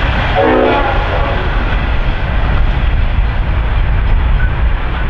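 Train running close by with a loud, steady rumble, and a short horn blast about half a second in.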